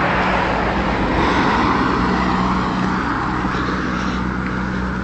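Road traffic noise: a steady rush of passing vehicles, slightly louder in the first couple of seconds, over a low engine hum.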